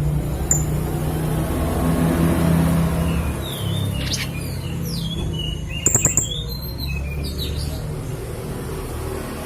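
Young blue-crowned hanging parrot (serindit) calling: short high chirps and sharp falling notes, with a quick burst of sharp notes about six seconds in. A steady low rumble runs underneath.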